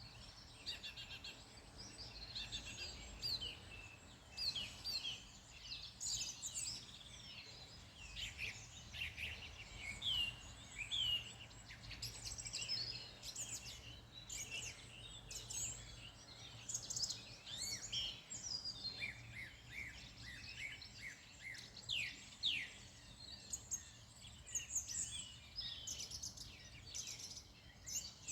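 Several wild songbirds singing and chirping together, with short quick notes overlapping throughout, over a low steady rumble.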